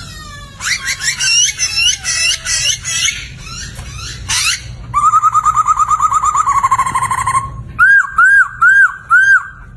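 Poksay (laughingthrush) singing a loud, varied run of whistled phrases: quick rising and falling notes at first, a fast trill of repeated notes from about halfway, then four looping whistles near the end.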